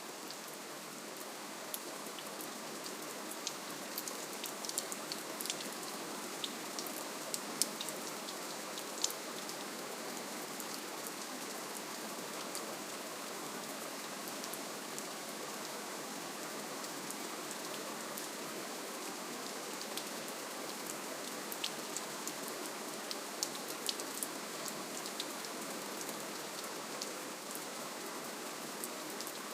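Steady rainfall: an even hiss of rain with many sharp individual drop ticks scattered through it.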